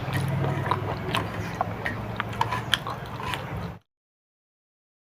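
Close-miked eating of a dal, rice and omelette meal: chewing with many small sharp clicks over a low steady hum. The sound cuts out abruptly to dead silence near the end.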